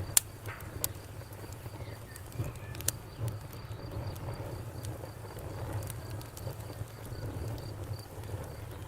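Campfire crackling: a steady low rumble of burning wood with a few sharp pops, the loudest just after the start. A cricket chirps steadily in the background, about four pulses a second.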